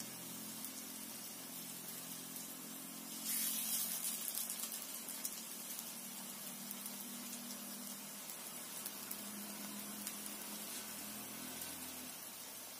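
Leaf-and-lentil fritters (bottle-gourd and bitter-gourd leaves with mung dal) sizzling in hot oil in a karahi with a steady hiss, which swells louder for a second or two about three seconds in.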